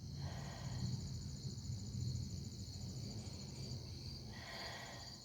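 Crickets chirping steadily in a continuous high pulsing drone at night. Two short hissy sounds come over them, one just after the start and one near the end.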